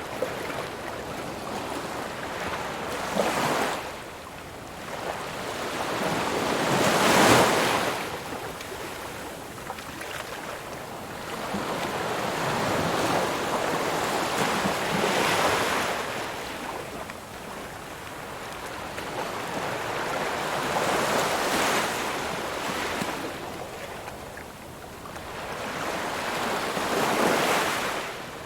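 Ocean waves breaking and washing on the shore, swelling and fading in a slow rhythm, with a louder crash about every five to seven seconds.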